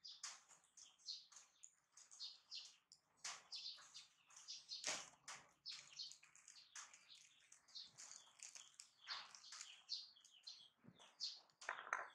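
Faint, rapid high-pitched chirping of small birds: many short chirps a second, in a dense, overlapping chatter.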